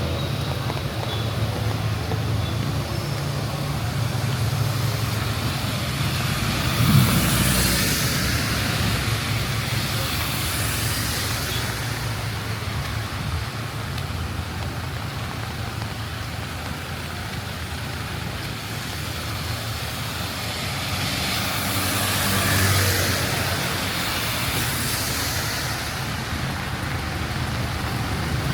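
Rain and city traffic on a wet road: a steady wash of hiss over a low engine rumble, with vehicles passing and their tyres hissing louder about seven seconds in and again around twenty-two seconds. A short loud knock comes near the first pass.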